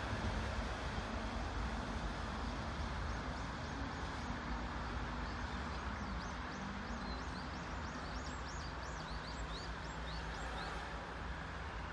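Seoul metro electric train rolling away, its rumble and a low hum slowly fading. Short high chirps of a bird repeat about twice a second through the second half.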